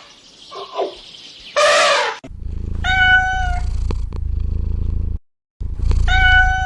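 Domestic cat purring loudly and close, with short meows: one about a second and a half in, then a steady held meow over the purring. The sound drops out briefly just after five seconds and then comes back with the purr and another meow.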